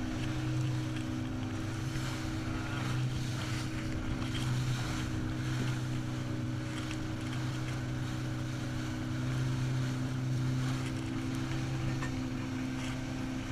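Outboard motor of a small boat running steadily under way, its pitch holding level, with wind noise on the microphone and water rushing past.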